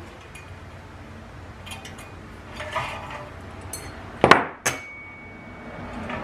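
Metal ceiling-fan parts clinking and knocking as they are handled during assembly, with two sharp clanks a little over four seconds in, the second leaving a faint ringing tone.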